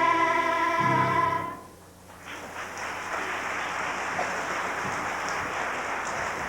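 A children's choir holding a final sung note that stops about a second and a half in, followed after a brief pause by steady audience applause.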